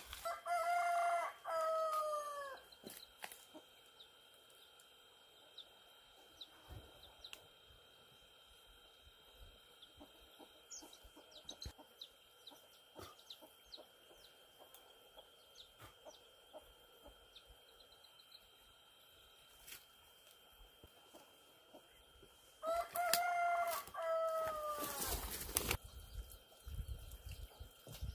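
A rooster crowing twice, about twenty seconds apart, each crow a drawn-out call that drops in pitch at the end. Faint scattered ticks between the crows.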